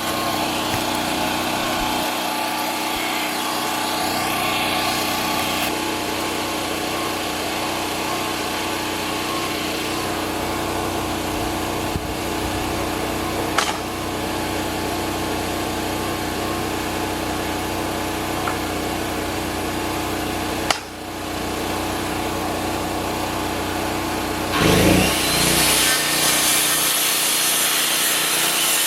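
Woodland Mills HM122 portable bandsaw mill running steadily while squaring the edges of a rough board. About 25 seconds in the sound changes and grows louder and brighter as the blade cuts through the wood.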